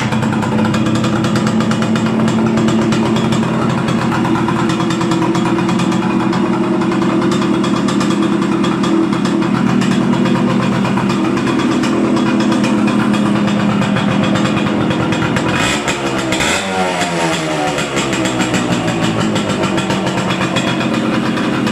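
1965 Bridgestone 90 Sport's small two-stroke single-cylinder engine running steadily just after starting. About 16 seconds in there is a quick throttle blip, and the revs fall back to idle over a couple of seconds.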